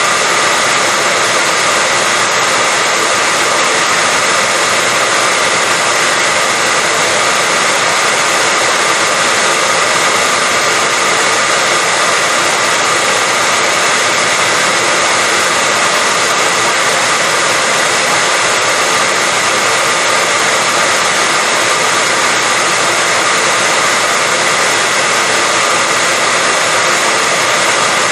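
Hair dryer blowing continuously at a steady pitch: a loud, even rush of air with a steady whine from the motor.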